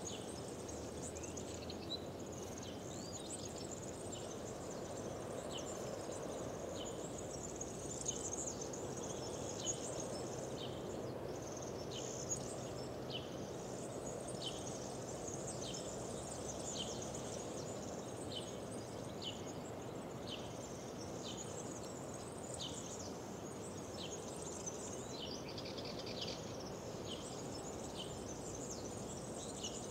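Birds singing, one repeating a short falling chirp roughly once a second, over a steady low rush of outdoor noise.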